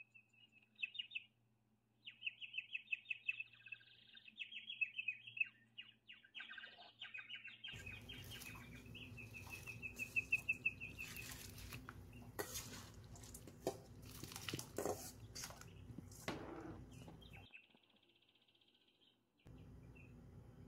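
A small bird chirping and trilling in rapid high notes. About eight seconds in, a steady hiss from the boiling pot starts, with a few sharp clinks and scrapes as soaked rice is tipped in from a steel bowl.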